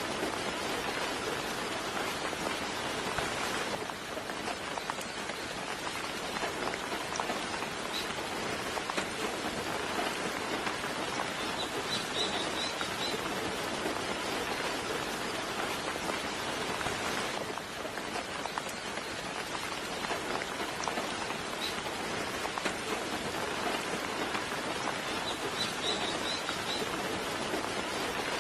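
Steady soft rain falling, a dense even patter. Short bursts of high bird chirps come through about twelve seconds in and again near the end.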